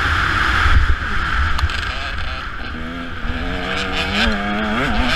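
Motocross bike engine under throttle while riding a dirt track, heard close up with wind noise on the mic. The pitch rises and falls as the rider blips and rolls the throttle, with quick revs near the end.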